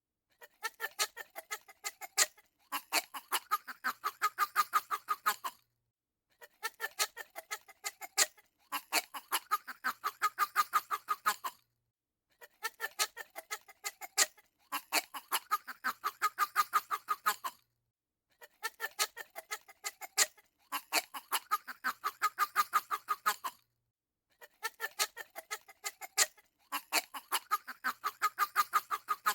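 Calls of domestic fowl, apparently a looped sound clip: a run of quick separate notes, then a longer dense stretch of rapid notes, the same sequence repeating about every six seconds.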